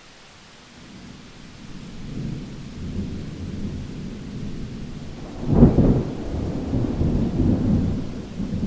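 Thunder in a rainstorm: a low rumble builds, a loud sharp clap comes about five and a half seconds in, and it rolls on in a low rumble. Steady rain hiss lies underneath.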